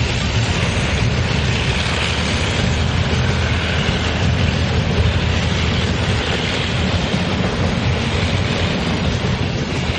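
Container freight train's flat wagons rolling steadily past at close range on steel rails, a loud continuous rumble.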